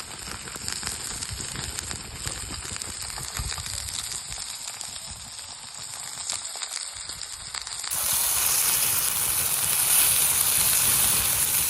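Homemade burgers sizzling and crackling as they cook, with many small pops. About eight seconds in, the sound switches abruptly to a louder, steady hiss.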